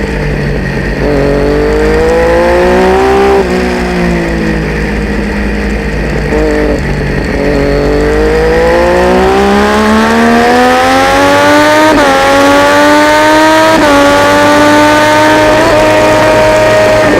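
Triumph Daytona 675's three-cylinder engine under racing acceleration: the revs climb, drop back and hold low, then climb hard for several seconds, with three quick upshifts near the end.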